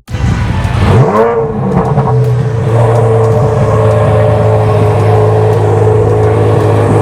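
Chevrolet Corvette Z06's V8 firing up: it catches with a rising flare about a second in, then settles into a steady idle.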